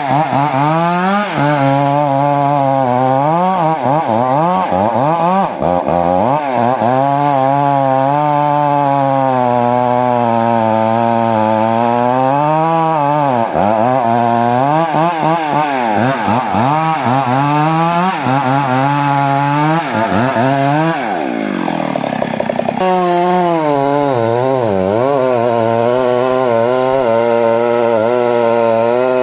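Two-stroke chainsaw running under load, its engine pitch dipping and recovering over and over as it cuts into jowar wood. About 21 seconds in the pitch rises sharply for a moment before the engine settles back under load.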